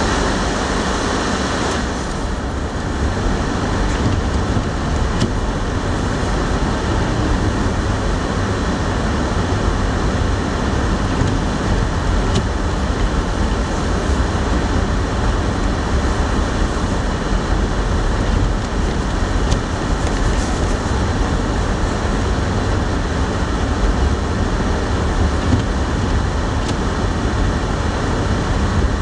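Storm wind blowing on the microphone: a steady, rumbling rush with no breaks.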